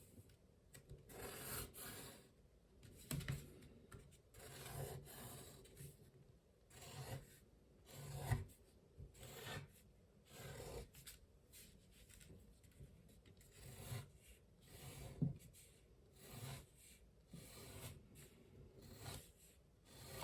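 A pen drawing on watercolour paper: short scratchy strokes every second or two as petals are sketched, with a couple of light knocks.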